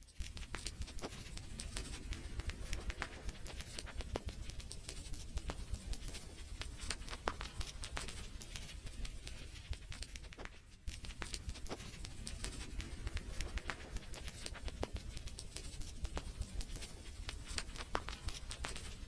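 Wood fire crackling, with dense irregular snaps and pops over a steady low rumble. The sound drops out briefly about 11 seconds in, then resumes.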